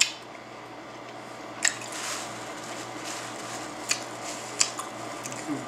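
Close-up eating sounds of a person chewing a juicy beef and chicken burrito: a few sharp, wet mouth clicks and smacks over a steady background hiss.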